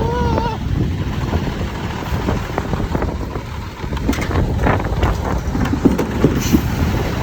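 Mack side-loader garbage truck's diesel engine running under heavy wind noise on the microphone. A wavering whine fades out just after the start, and scattered clattering knocks come in the second half.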